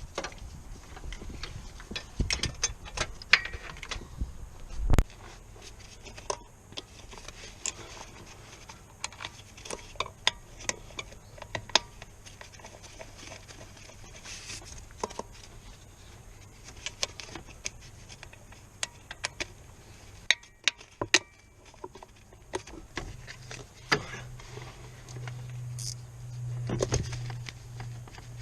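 Irregular metallic clicks, clinks and knocks of hand tools and parts being handled during work on a car's clutch, with a low steady hum coming in near the end.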